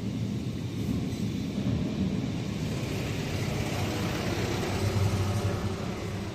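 A heavy truck's engine running with a steady low rumble, swelling a little about five seconds in.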